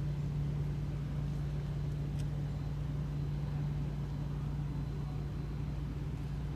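A steady low engine hum with a strong single drone and rumble beneath, unchanging in pitch and level.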